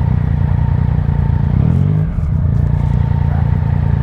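Motorcycle engine running steadily under way. About halfway through, the revs rise briefly and then drop.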